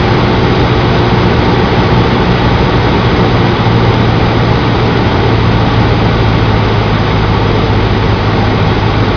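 Cessna 152's four-cylinder Lycoming O-235 engine and propeller droning steadily in flight, a loud constant noise over a deep steady hum.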